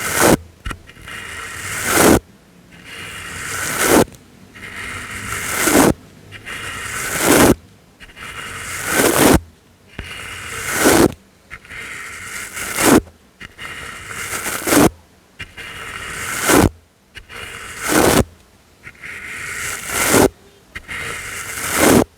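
Slow, regular brush strokes for ASMR, about one every two seconds and a dozen in all. Each scratchy stroke swells and then stops abruptly.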